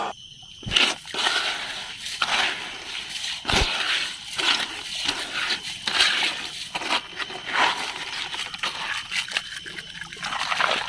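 A plastic toy vehicle being handled and cleaned: irregular clicks, knocks and scrubbing scrapes, some with a wet, sloshing quality.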